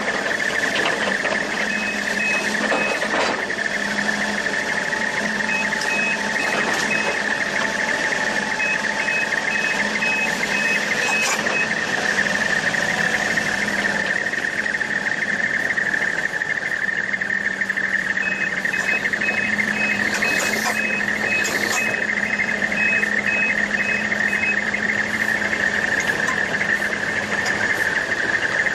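A machine's steady high-pitched whine over a lower hum, with several runs of short, rapid beeps, two or three a second, like a vehicle's reversing alarm.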